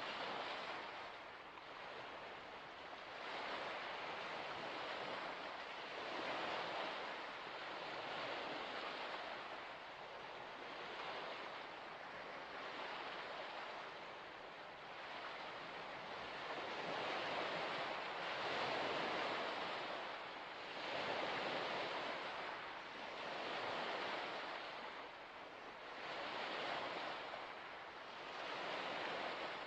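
Small waves washing onto a shore, the wash swelling and fading every two to three seconds.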